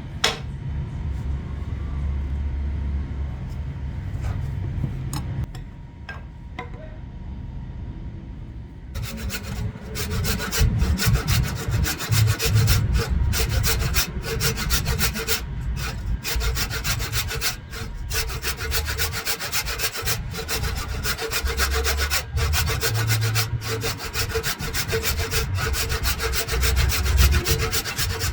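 Wood being cut or shaped with a tool, a continuous rasping, sawing sound. It starts about nine seconds in, after a quieter stretch with a low hum and a few knocks.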